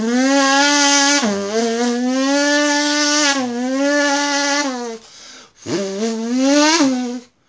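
Snowmobile engine running at high revs in two pulls. The first holds a steady pitch for about five seconds with brief dips, and the second is shorter, rising before it cuts off near the end.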